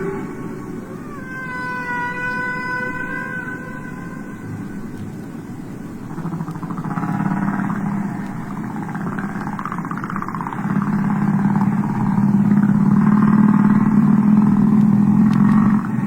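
Whale calls: a pitched call with several overtones a second or two in, then a long, low drawn-out call with a rougher, wavering layer above it that grows louder about halfway through.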